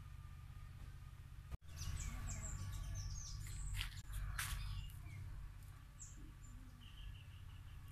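Small birds chirping in short, high calls and quick downward sweeps, with a brief run of repeated notes near the end, over a steady low rumble. The sound cuts out for an instant about a second and a half in.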